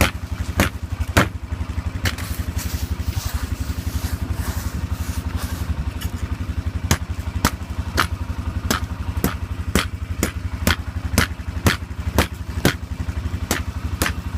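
ATV engine idling steadily after a cold start, with sharp knocks about twice a second as ice is smacked off the seat.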